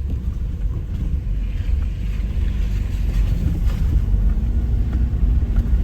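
Subaru Outback driving slowly on a rough forest road, a steady low rumble of engine and tyres.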